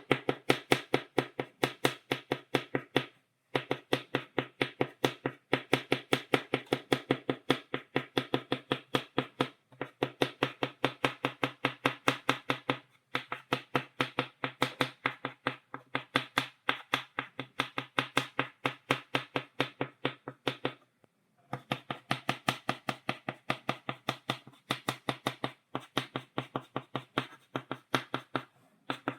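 Chalk tapping on a blackboard in quick, steady dabs, several taps a second, as dots are stippled onto the board. The tapping stops for a moment a few times, the longest pause about three quarters of the way through.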